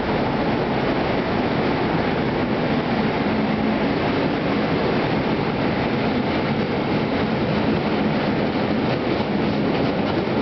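Freight train of covered hopper wagons rolling past at steady speed: a steady rumble of steel wheels on the rails, with some clicking over rail joints near the end.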